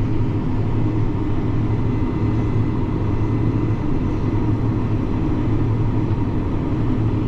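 Grain combine running with a steady low drone while its unloading auger is out and unloading grain, with a faint steady whine over it.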